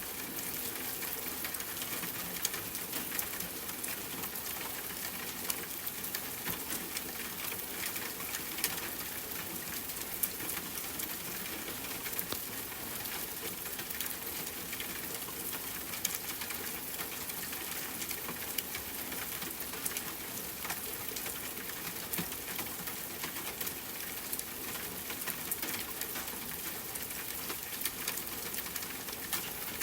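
Steady rain falling on a tent, with scattered sharp crackles and pops from a campfire.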